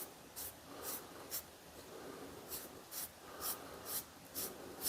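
Faint, short applicator strokes on wood, about two a second, as iron acetate is worked into the end grain of a wooden screwdriver handle to ebonize it.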